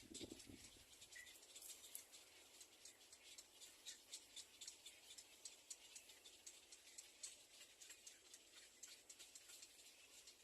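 Faint scratching and light clicking from a baby bird, with one short, soft chirp about a second in.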